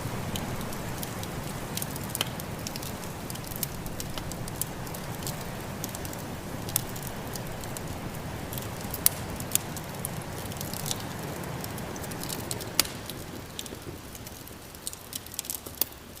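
Wood fire crackling with frequent sharp pops and snaps, over a steady low rush of snowstorm wind that fades away near the end.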